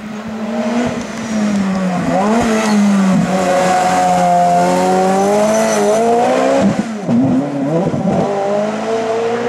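Race car engine revving hard on a hillclimb, its pitch rising and falling repeatedly, with a short dip in revs around seven seconds.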